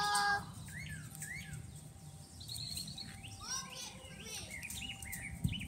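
Birds chirping: many short rising and falling calls and a brief trill, over a low steady rumble.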